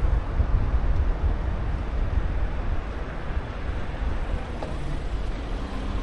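Wind buffeting the microphone while riding, a steady rush heaviest in the low rumble, with a small tick a little over four seconds in.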